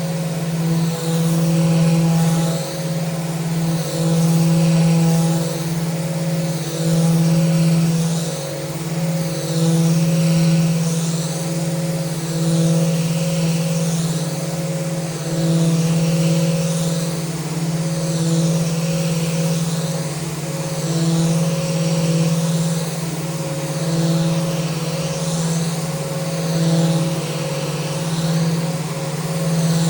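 Electric power sander running steadily on a mounted handrail, its motor holding one steady hum. The higher hiss of the pad on the wood swells and fades about every second and a half as it is worked back and forth along the rail.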